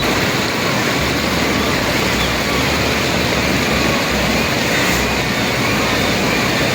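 Steady rushing water pouring at a salmon hatchery dam, with a low rumble that comes and goes.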